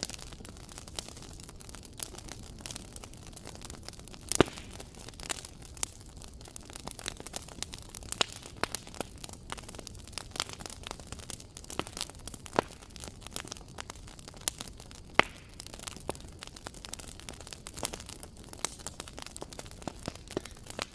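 Wood fire crackling in a fireplace: irregular sharp snaps and pops over a steady low hiss, with a few louder pops scattered through.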